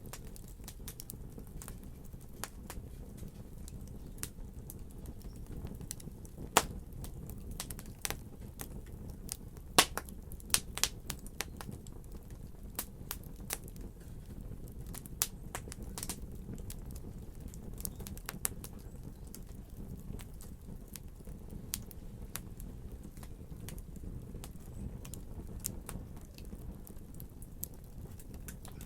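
Wood fire crackling: a steady low rumble of burning with irregular sharp pops and snaps, the loudest a little after six seconds and around ten seconds in.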